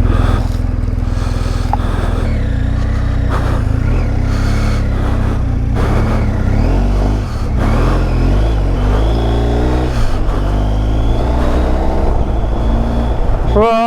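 Motorcycle engine running under way with wind rush. The level dips briefly about seven seconds in, then the engine pitch rises over the next few seconds as it accelerates.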